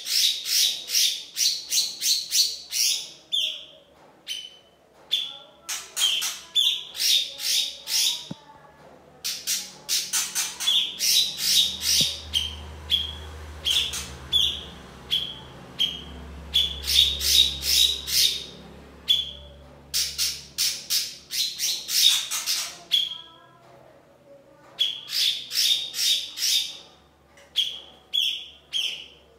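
Rapid bursts of sharp, high chipping calls from a small animal, about eight to ten notes a second, each burst lasting a few seconds with short pauses between. This is a master recording played to teach white-rumped shamas new song.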